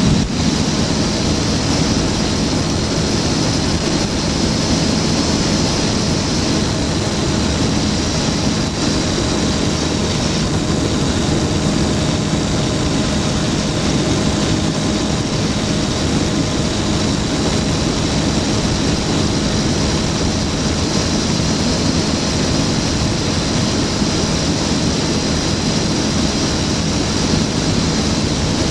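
Flightstar II light sport aircraft's engine and propeller running steadily at one power setting, a constant loud drone with no change in pitch.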